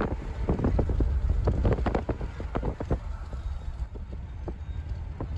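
Wind rumbling on the microphone over water slapping and splashing in quick short strokes, which thin out about three seconds in.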